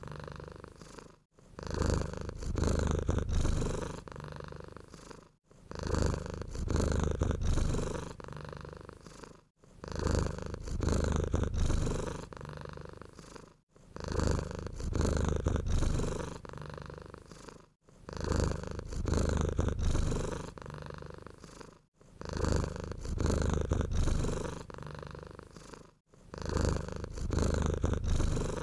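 Domestic cat purring steadily. The rumble swells and eases in a regular cycle about every four seconds, louder on one breath and softer on the next.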